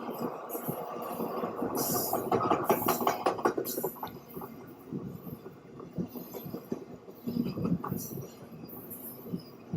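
Train running past on the tracks, a steady rumble with rapid wheel clatter that is loudest about two to three and a half seconds in.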